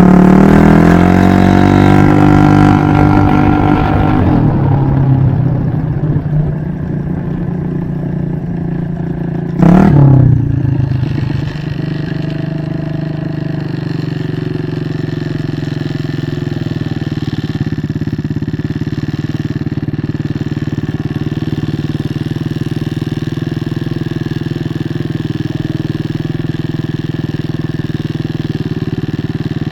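Scooter engine, likely a GY6, running: its pitch falls back from revs over the first few seconds, a quick throttle blip comes about ten seconds in, then it settles into a steady idle.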